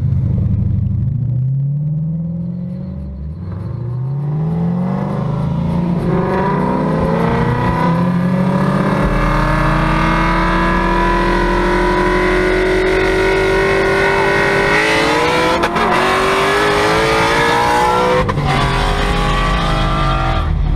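Shelby GT500's supercharged V8 accelerating hard, the engine note climbing in pitch over a long pull after a brief dip about three seconds in, with two short breaks near the end as it shifts. Heard from inside the open-top car, with a low wind rumble underneath.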